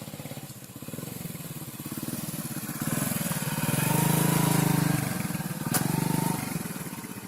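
Motorcycle engine running with a fast, even pulse, getting louder to a peak about four to five seconds in and then dropping back. A short sharp click sounds near six seconds.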